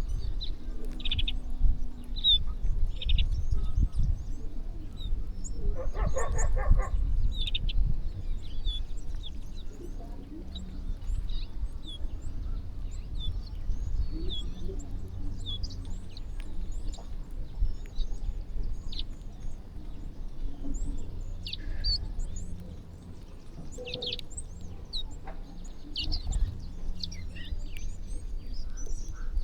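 A flock of small birds chirping while feeding, with many short, high chirps scattered throughout and one harsher, lower call lasting about a second around six seconds in, over a steady low rumble.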